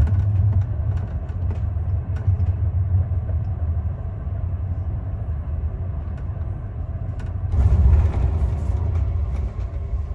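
Train running along the track: a steady low rumble with scattered light clicks, swelling louder about eight seconds in.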